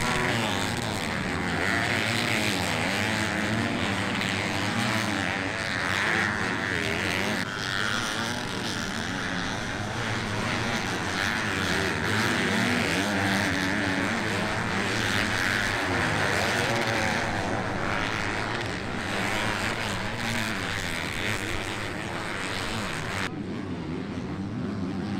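Motocross bikes racing, several engines revving up and down together over a steady rushing noise. About 23 seconds in the sound cuts abruptly to a quieter background.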